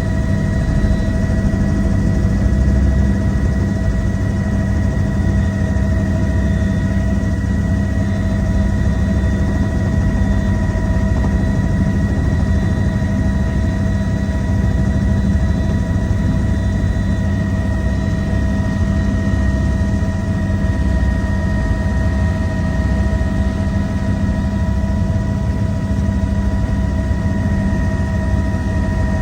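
Helicopter's engine and rotor running steadily in flight: a loud, even low rumble with a few constant high whining tones above it.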